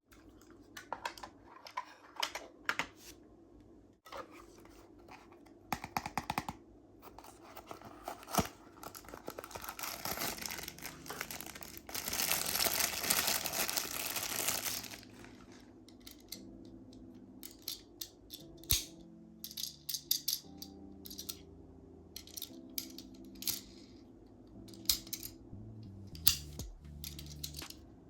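Toy packaging being handled and opened: scattered clicks and taps, with a few seconds of tearing and crinkling about halfway through. Soft background music plays underneath.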